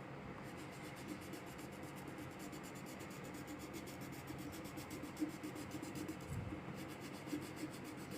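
Faint, steady scratching of a colouring tool rubbed back and forth on a workbook page as a picture is coloured in.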